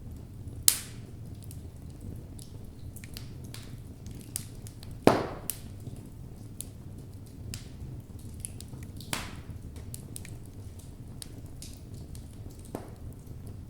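Wood logs burning in a fireplace: a steady low sound of the fire under scattered small crackles, with three loud pops, the loudest about five seconds in.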